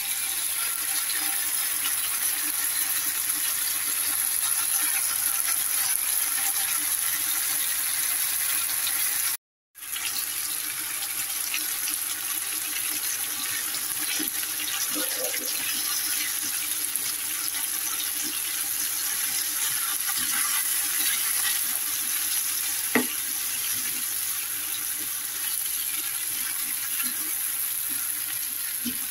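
Cherry tomatoes and eggs sizzling steadily in a frying pan as a wooden spatula stirs them. The sound cuts out completely for a moment about a third of the way through, and there is a single sharp tap near the end.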